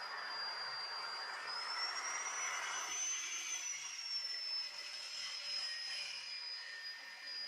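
Electric cut-off saw motor, mounted as a table saw, running at speed with a high steady whine. The pitch climbs a little two to three seconds in, then eases back, with a louder rushing hiss over the first few seconds.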